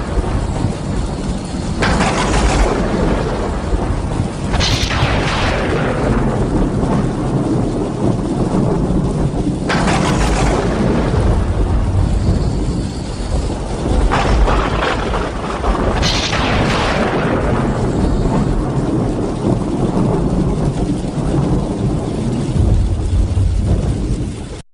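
Thunderstorm: rain falling steadily, with thunder cracking several times, about two, five, ten, fourteen and sixteen seconds in, each crack trailing off into a rumble.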